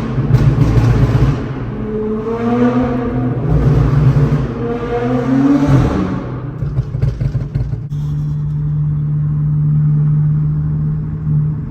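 Car engines accelerating hard, the pitch climbing again and again as they pull away, then settling into a steady engine drone for the last few seconds.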